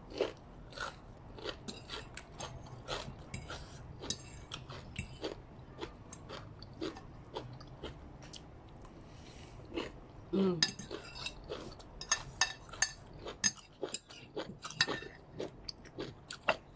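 Close-up chewing and crunching of stir-fried egg noodles and vegetables, a run of irregular short wet clicks and crackles from the mouth. A brief vocal sound about ten seconds in.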